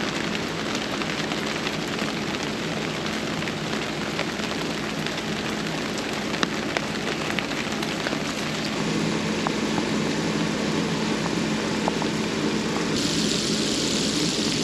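Center-pivot irrigation system running: a steady hiss of water spraying with a constant low motor hum and scattered small ticks of droplets; a brighter, higher hiss joins near the end.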